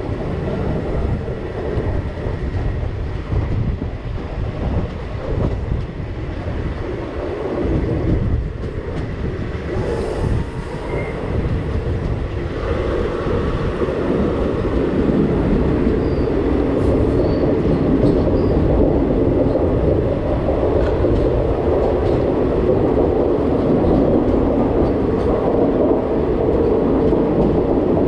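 Express passenger train running along the track, heard from a coach window: a steady rumble of wheels on rails. About halfway through, the train enters a tunnel and the running noise grows louder and fuller.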